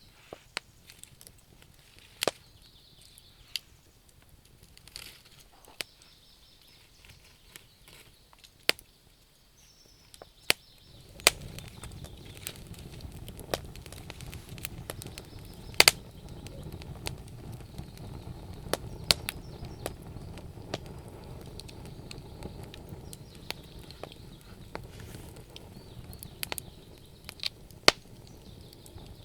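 Wood fire crackling, with sharp, irregular pops of burning wood. About a third of the way in, a steady low noise from the burning rises under the pops and stays.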